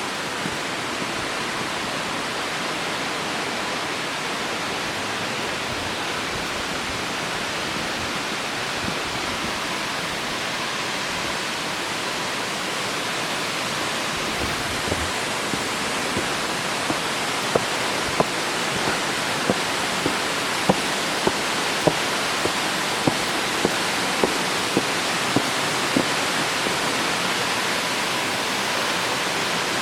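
Steady rushing of a waterfall, the water crashing into its pool. In the second half a run of sharp, evenly spaced ticks, a little under two a second, sits on top of the rush.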